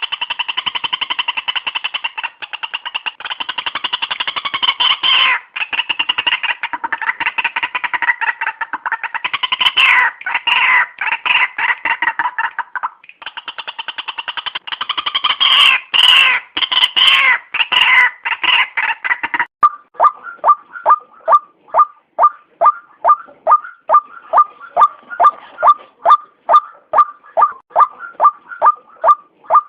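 White-breasted waterhen calling: a loud, dense, chattering run of croaking calls, then, about twenty seconds in, an abrupt switch to a steady series of single repeated notes, about two or three a second.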